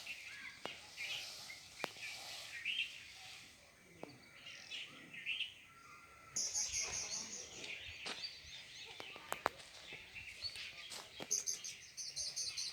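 Outdoor birds chirping and calling, with rapid high trills about halfway through and again near the end, and a few faint sharp clicks.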